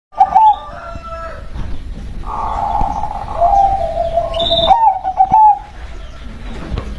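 Zebra dove cooing: a run of clear, warbling coo notes starting suddenly, a longer held note in the middle, then another quick cluster of coos. A brief high chirp from another small bird cuts in about four and a half seconds in.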